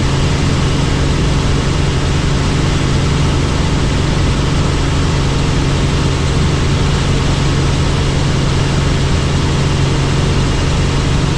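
Helicopter engine and rotor running steadily: a constant loud drone with a strong low hum that does not change.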